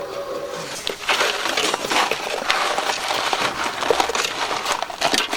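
Gritty, irregular scraping and crunching of a hand tool working brick and mortar.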